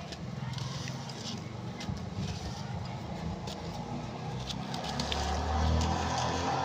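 Hands crumbling pressed blocks of red dirt made from crushed red brick: dry crackles and crunches as the blocks break apart. Under them runs a low rumble that grows louder in the last couple of seconds.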